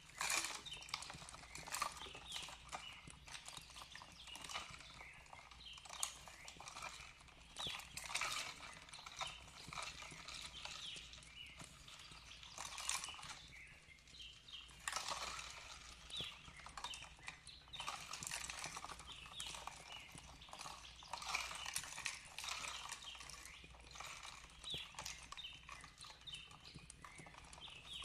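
Fireplace crackling with irregular pops and snaps, with birds chirping softly and gently flowing water behind.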